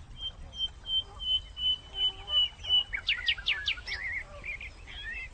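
Small birds singing: a run of short, evenly repeated high notes, about four a second, then several quick falling whistles and a warbling chatter.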